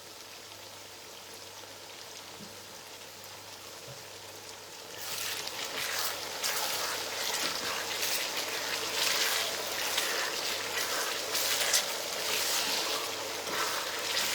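Stew base sizzling and crackling as it fries in red oil in a pot. It is a faint hiss at first and becomes a louder, steady crackle about five seconds in.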